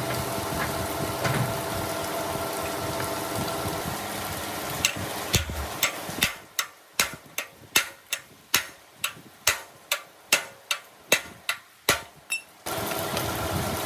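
A steady machine hum, then a run of sharp knocks at about two a second that lasts several seconds before the hum comes back near the end.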